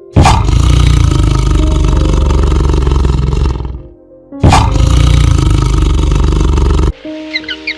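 Big cat roaring twice: a long, gravelly roar of about three and a half seconds, then a second of about two and a half seconds, each starting and stopping abruptly, over soft background music.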